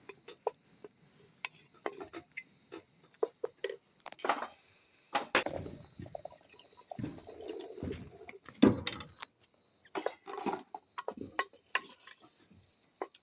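Irregular clinks and knocks of cooking utensils against pots and dishes, with a few duller thuds in the middle, the loudest knock just past halfway.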